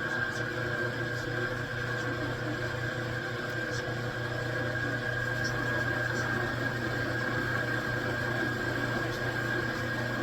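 Metal lathe running steadily: a constant low hum with a steady high whine above it, and a few faint ticks.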